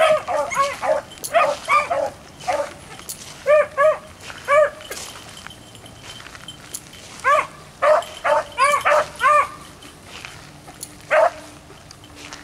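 Beagles baying on a rabbit's trail: short, arched yelping calls in bursts of several at a time, with pauses between bursts and a single call near the end.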